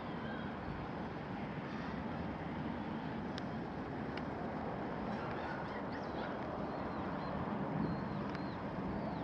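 Steady outdoor background noise, with a few short, high bird calls in the second half.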